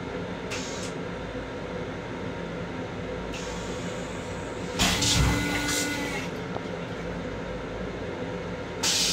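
Running noise of a Long Island Rail Road M7 electric railcar heard inside its restroom: a steady rumble with low hums. About five seconds in, a loud rushing burst with a thump and faint tones lasts about a second and a half, and another sudden rushing burst starts near the end.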